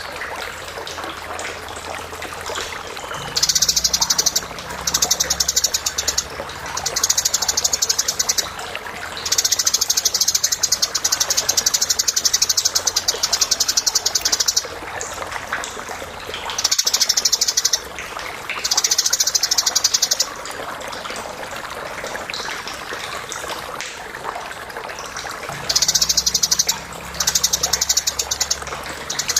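Eurasian tree sparrow chattering: bursts of rapid, high-pitched repeated chirps, each one to five seconds long, separated by short pauses, over a steady background hiss.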